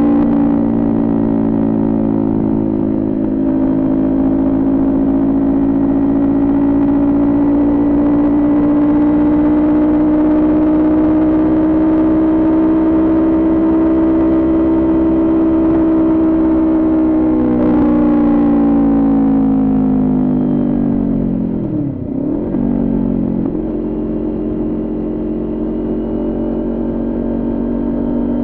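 Kawasaki Ninja 400 parallel-twin engine running at high revs under way, its pitch creeping slowly upward. About two-thirds of the way through the revs drop away, with a brief break as it shifts, then the engine settles back to a steady pitch.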